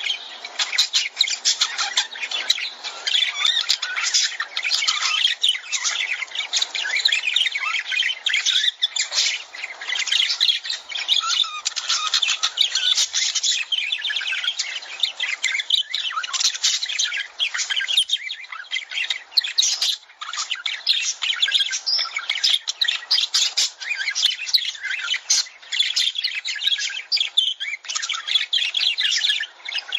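Lovebirds chirping in a rapid, unbroken chatter of high-pitched calls.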